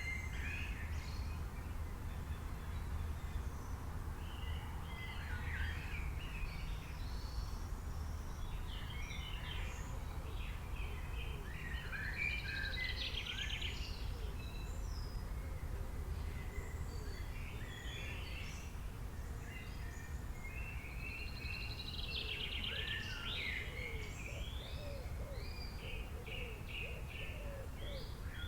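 Several birds chirping and calling in short phrases and trills, overlapping at times, over a steady low background rumble.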